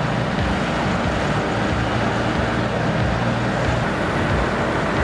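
Heavy vehicle diesel engine running steadily under a dense mechanical noise, with a low hum.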